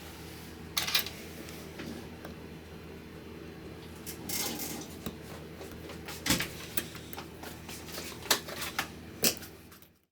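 Scattered small clicks and taps, typical of tools handling phone parts at a repair bench, over a steady low hum. The sound cuts off abruptly near the end.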